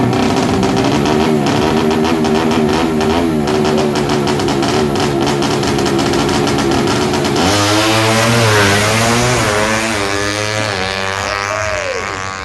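Tuned 200cc underbone drag-racing motorcycle engine running hard at high revs through a run. About two-thirds of the way through, music comes in over it.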